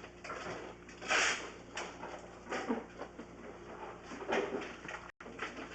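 Irregular knocks, scrapes and rustling handling noises, the loudest about a second in; the sound cuts out for an instant near the end.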